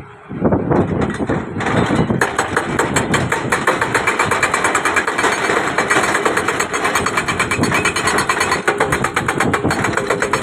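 Heavy construction machinery, an excavator, working with a loud, rapid, even clatter that sets in about two seconds in and holds steady.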